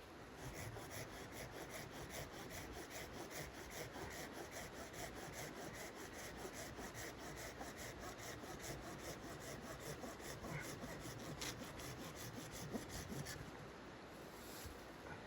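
Hand saw cutting wood in quick, regular strokes, about three a second, which stop near the end.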